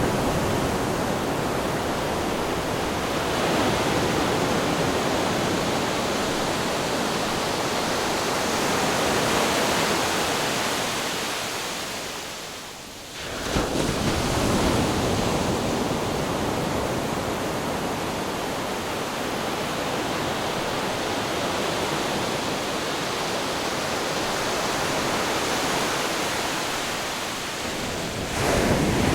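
Steady rushing noise of ocean surf and wind. It fades down briefly about halfway through, then swells back in.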